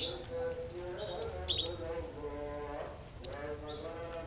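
Cinereous tit (gelatik batu) singing sharp, high whistled notes that drop steeply in pitch. They come in short loud bursts, twice about a second and a half in and again past three seconds.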